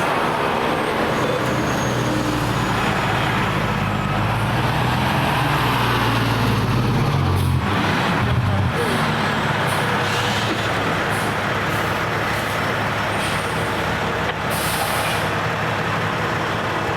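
Fire truck diesel engine running, with short hisses of air from its air brakes.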